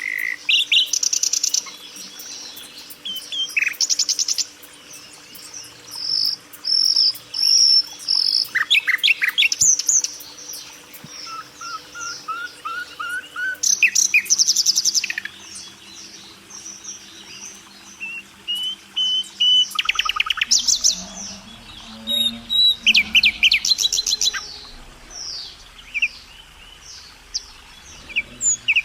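A flock of caged budgerigars and lovebirds chirping and chattering continuously, with rapid trills and short sharp calls overlapping, over a faint steady hum.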